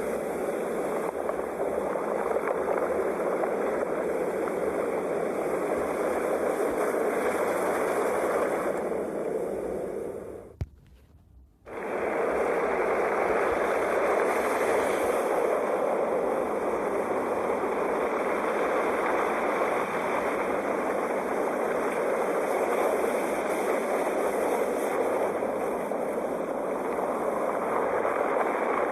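Sea waves washing in a steady rushing noise that swells and eases slowly. About ten seconds in, the sound cuts out for about a second, with a single click, then resumes.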